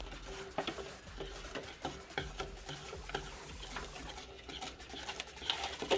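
Cheesecake filling being stirred by hand in a bowl: a utensil scraping and tapping against the bowl in quick, irregular strokes, with a faint steady hum underneath.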